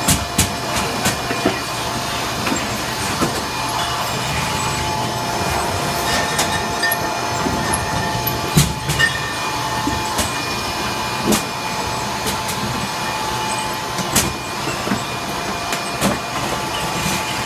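Wine bottling line running loud: a steady machine drone with a few held tones, broken by irregular sharp clinks of glass bottles knocking together as they move down the line.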